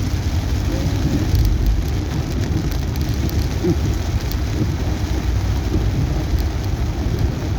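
Heavy rain drumming on a moving car, heard from inside the cabin: a steady dense patter with scattered sharp drop hits over a continuous low road rumble.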